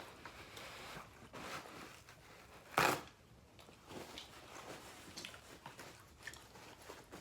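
Quiet eating sounds of a seafood meal: chewing and small clicks from handling the food, with one short, sharp crackle about three seconds in.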